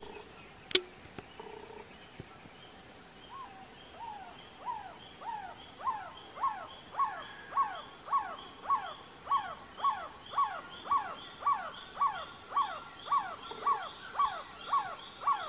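A trogon singing a long series of short notes, each falling in pitch, about two a second, growing louder over the first few seconds. Beneath it runs a steady high background drone, and a single sharp click comes about a second in.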